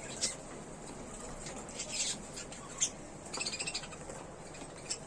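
Budgerigars chirping: a few short high chirps, with a quick run of chirps about three and a half seconds in.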